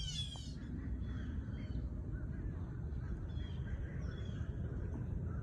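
Birds calling outdoors: one harsh call right at the start, then faint short chirps scattered through, over a steady low rumble.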